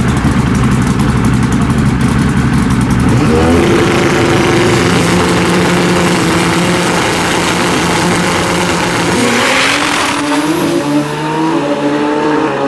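Pro Xtreme drag bike engines running at high revs, then accelerating hard from about three seconds in, their pitch stepping up through the gear changes. A loud rush of noise comes about ten seconds in, followed by more rising engine tones.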